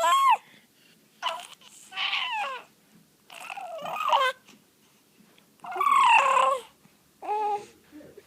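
A baby's high-pitched crying-like squeals and whimpers, about six separate cries with short pauses between them, each bending up and down in pitch.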